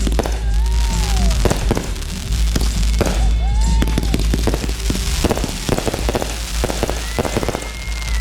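Fireworks display: many rapid sharp bangs and crackles, with a few whistles gliding in pitch, over music.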